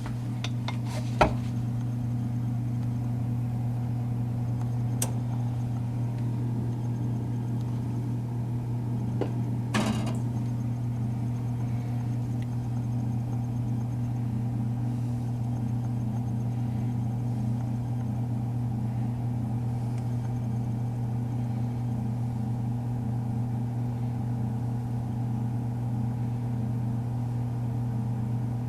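Toaster oven running with a steady low electrical hum. A sharp click comes about a second in and fainter clicks follow around five and ten seconds in.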